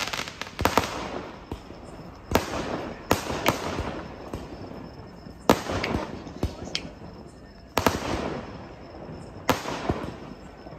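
Fireworks going off: a string of sharp bangs, one every second or two at uneven intervals, each followed by a fading crackle and hiss.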